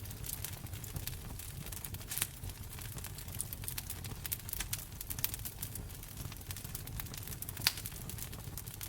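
Wood fire crackling in a fireplace: a steady scatter of small sharp crackles, with one louder pop a little after two seconds in and the loudest pop about three-quarters of the way through, over a steady low rumble.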